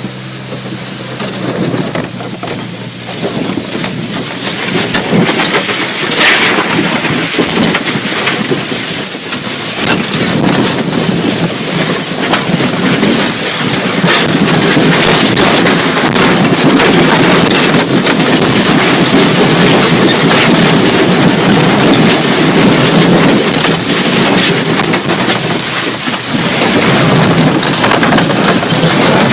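Loud, steady rushing rumble of a boat being towed across desert sand, the hull sliding over the sand with the tow vehicle running. It builds over the first few seconds and then stays very loud.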